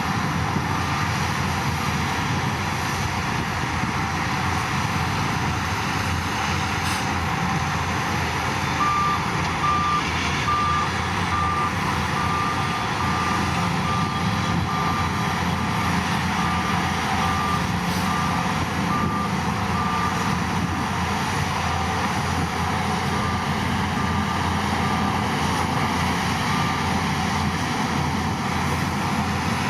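Heavy machine's diesel engine running steadily under load while its reversing alarm beeps in an even, repeated one-pitch pattern, coming in clearly about nine seconds in and fading near the end.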